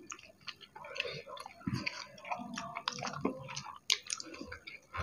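Chewing and mouth sounds of people eating rice with chicken curry by hand: irregular short wet clicks and smacks throughout.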